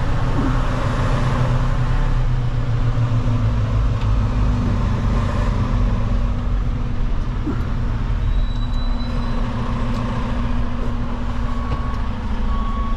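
Semi-truck diesel engine running steadily at low revs under a dry bulk tanker rig. Near the end a reversing alarm starts beeping in short, even pulses.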